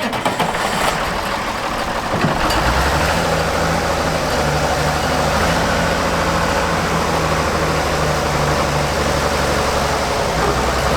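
Oliver tractor engine running steadily close by, picking up and getting heavier about two seconds in, then holding steady.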